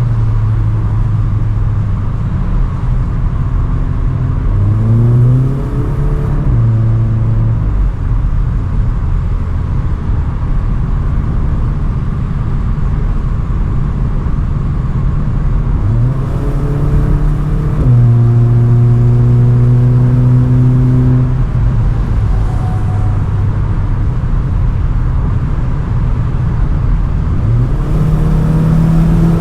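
Cupra Ateca's turbocharged 2.0-litre four-cylinder engine and stock exhaust heard onboard at autobahn speed over road and wind noise. The engine pitch climbs under acceleration about 5 seconds in, again around 16 seconds and near the end, with steady running between.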